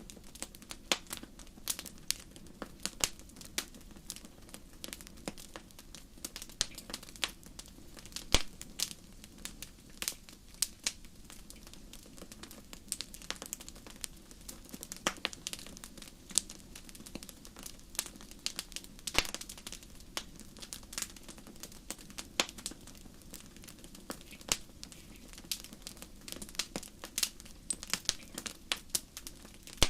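Campfire crackling: irregular sharp pops and snaps, a few a second with now and then a louder one, over a steady low rush of burning.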